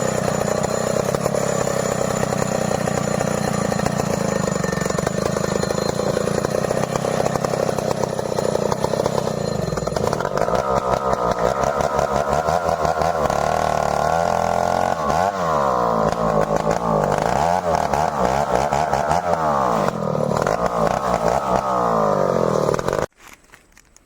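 Stihl 070 two-stroke chainsaw running, steady for about ten seconds, then its engine pitch rises and falls over and over. The engine cuts off suddenly near the end.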